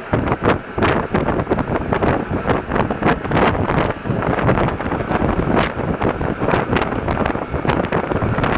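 Alstom NS-74 rubber-tyred metro train running, a steady rumble and rushing noise broken by frequent irregular rattles and clicks.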